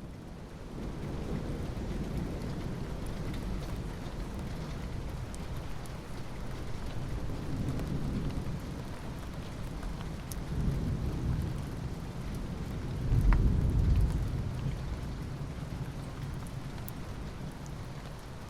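Steady rain with rolling rumbles of thunder; the loudest rumble swells up about two-thirds of the way through.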